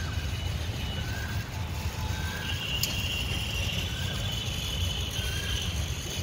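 A bird repeating one short call a little more than once a second, over a low steady rumble like distant traffic.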